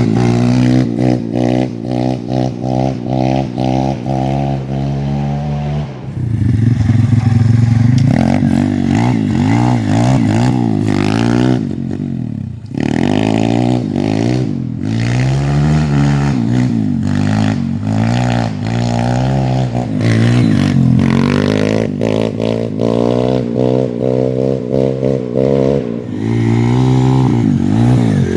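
YCF 150 pit bike's single-cylinder four-stroke engine running hard. It holds a fairly even pitch for the first few seconds, then revs up and down again and again as the throttle is opened and closed.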